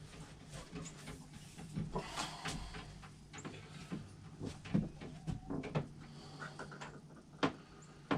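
Scattered light clicks and knocks of things being handled and set down, with one sharper click near the end, over a faint steady low hum.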